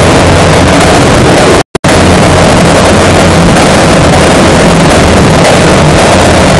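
Modified Royal Enfield single-cylinder motorcycle engine running loudly and steadily through an aftermarket exhaust. The sound drops out completely for a moment just under two seconds in.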